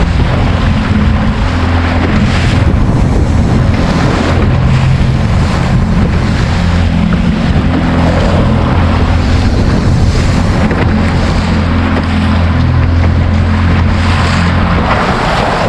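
A small boat's motor drones steadily at trolling speed, with wind buffeting the microphone and choppy water slapping around the hull. The motor's hum drops away near the end.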